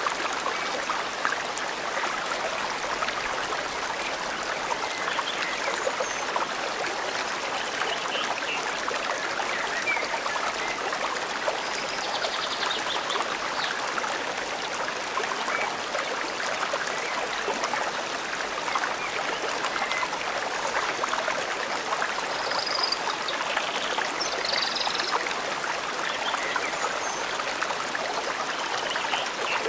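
Forest stream flowing with a steady rushing trickle, and a few faint bird chirps scattered above it.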